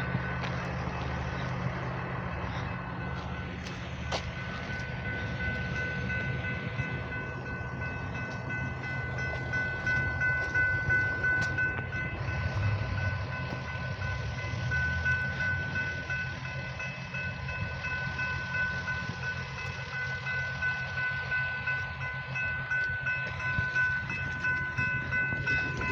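Railroad crossing warning bell ringing on and on, high and steady. The crossing is stuck active with no train coming: a malfunction that is guessed to be an electrical issue in the signal box. A low steady hum runs underneath.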